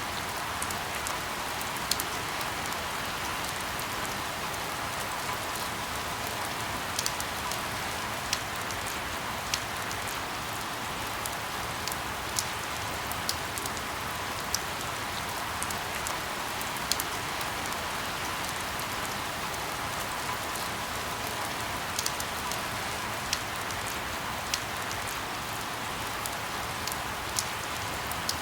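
Steady rain falling, with scattered sharp drips of drops striking a surface.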